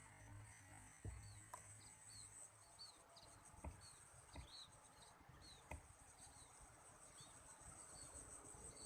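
Faint, quiet chirps of munias (emprit): short high down-slurred notes repeated one or two a second, over a steady high-pitched insect drone. A few faint clicks are heard among them.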